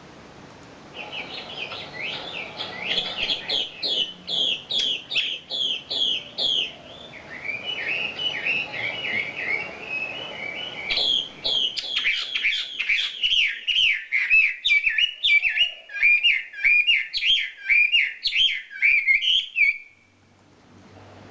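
Wambi bird singing: a run of repeated, down-slurred whistled notes, then a jumbled twittering stretch, then a longer, faster run of the same kind of notes that stops suddenly near the end.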